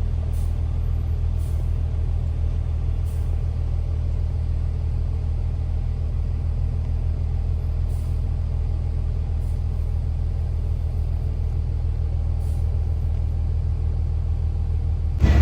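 Steady low rumble of a car in motion, with a few faint clicks.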